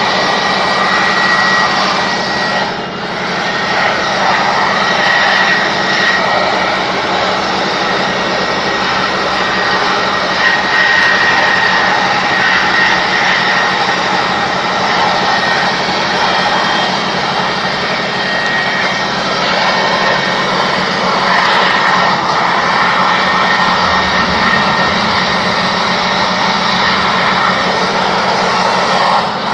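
Electric air blower running steadily, a loud rush of air with a thin whine, blowing dust out of a note counting machine; it eases off briefly about three seconds in.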